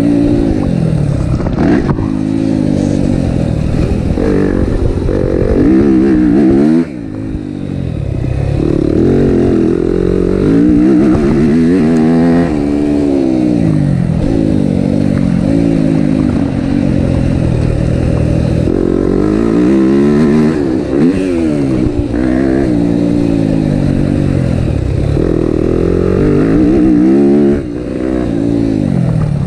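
Yamaha motocross bike's engine, heard close from the rider's onboard camera, revving up and falling away again and again as the throttle is worked around the track. The engine note cuts off sharply twice, about seven seconds in and near the end, as the throttle is snapped shut.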